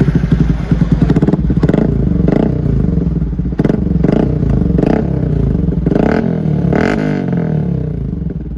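Modified motorcycle with an aftermarket exhaust, running and being revved in a string of short throttle blips, about one a second, the pitch rising and falling with each blip.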